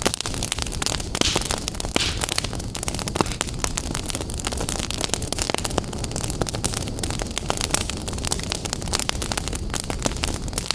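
Wood fire burning in a fireplace, crackling and popping constantly over a steady rushing hiss.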